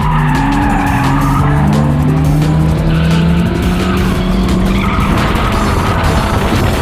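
Ford AU Falcon drift car's engine revving up and down in changing pitch while its tyres skid and squeal through a slide.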